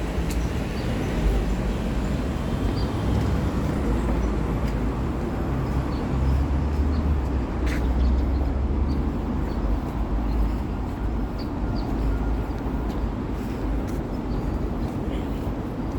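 City street ambience: a steady low rumble of passing road traffic, with a few faint clicks.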